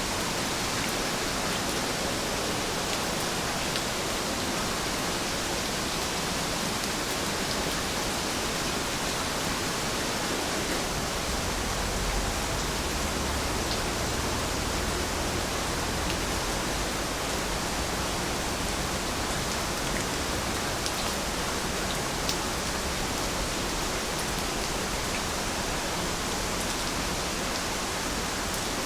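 Heavy rain falling steadily, an even hiss with scattered drop ticks, and a faint low rumble coming in about ten seconds in.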